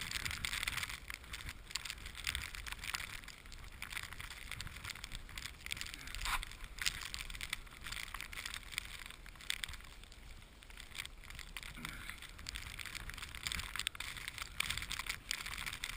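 Footsteps crunching through deep snow, an uneven run of crunches.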